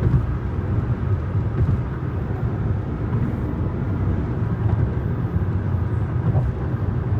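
Steady low rumble of a car in motion, tyre and engine noise heard from inside the moving car.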